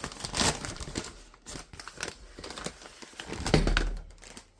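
A guitar pedal's packaging being opened by hand: irregular crinkling, tearing and rustling, with a louder bump about three and a half seconds in.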